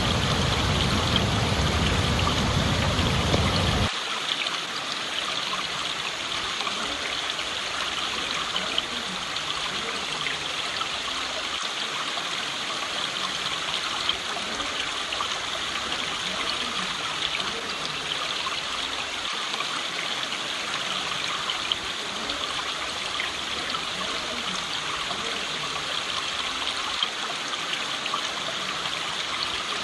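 Stream water flowing steadily with a continuous rushing trickle. For the first four seconds a heavy low rumble lies under it, then stops suddenly.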